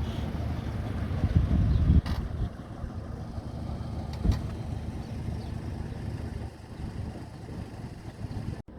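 Low rumble of passing street traffic, loudest in the first two seconds, with a couple of short knocks; it cuts off abruptly near the end.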